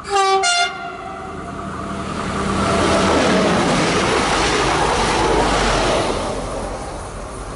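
TER regional railcar sounding a short two-note horn blast, then passing close by: the rush of its engine and wheels swells to a peak around the middle and fades away near the end.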